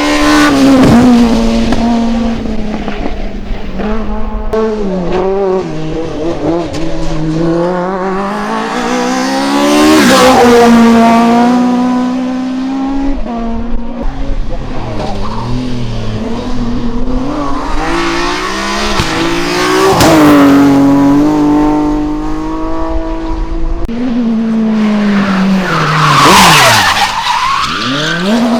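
Hillclimb race cars passing one after another at full throttle, their engines revving up and dropping through gear changes. The engine sound swells as each car goes by, about four times, and the pitch falls as the last one moves away.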